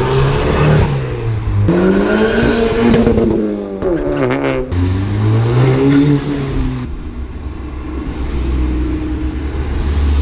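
Car engine revving, its pitch climbing and falling three times in a row, then settling into a deep steady rumble about seven seconds in.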